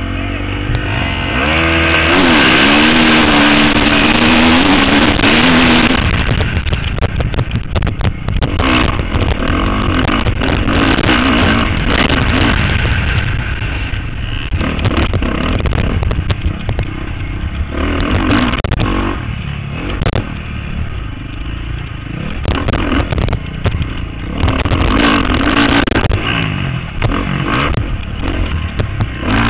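Motocross bike engine at full speed, its pitch rising and falling again and again as the rider accelerates and backs off, heard through a helmet-mounted camera. A constant low rumble and many short knocks run under it.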